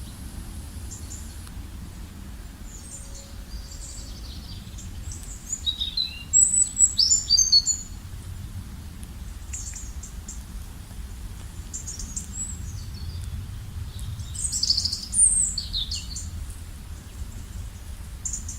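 Wild songbirds chirping and singing in quick, high calls and trills, with a louder flurry about six seconds in and another about fifteen seconds in, over a steady low background rumble.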